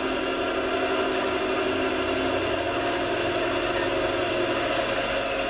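Radio-controlled model construction machinery running with a steady whirring hum that holds even throughout.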